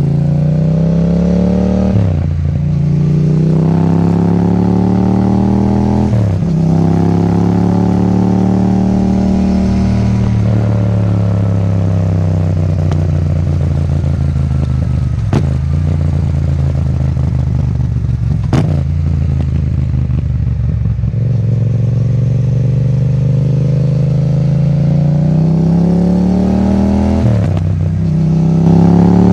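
Yamaha MT-07's 689 cc parallel-twin engine running through an Akrapovič titanium exhaust under riding load: it revs up and drops in pitch at two quick gear changes, then holds and slowly falls in revs before picking up again near the end. Two sharp clicks are heard midway.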